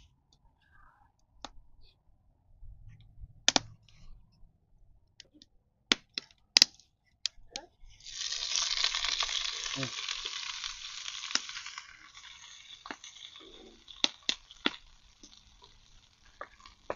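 Food tipped from a bowl into a hot pot of oil over a wood fire, hissing loudly about eight seconds in as it hits the oil. The sizzle slowly dies down, with sharp knocks of utensils against the pot before and after.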